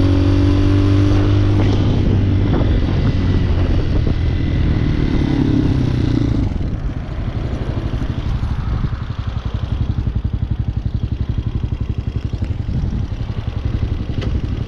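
Hawk 250 dual-sport motorcycle's 229cc single-cylinder engine running steadily at speed, then dropping off about six seconds in and settling into a lower, fast, even chug.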